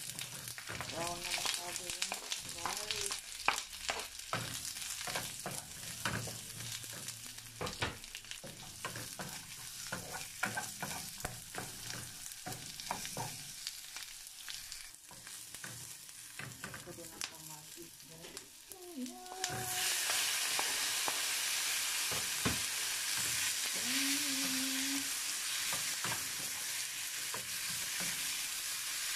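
Onion and chayote frying in butter in a small nonstick wok, a wooden spatula scraping and tapping the pan as they are stirred. About two-thirds of the way through the sizzle jumps louder and stays steady as wet tomato slices hit the hot pan.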